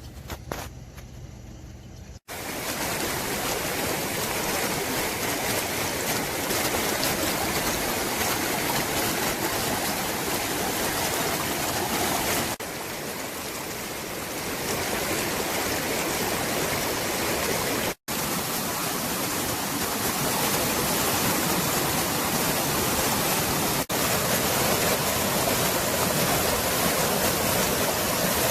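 Mountain valley stream rushing steadily, a continuous loud wash of water noise. It starts about two seconds in and is broken by a few abrupt cuts.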